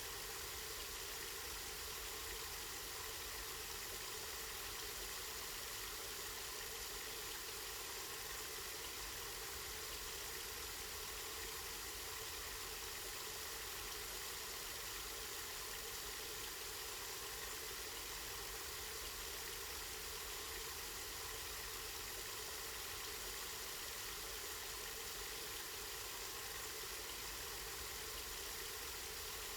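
Water from a spring flowing steadily, an even hiss that stays the same throughout.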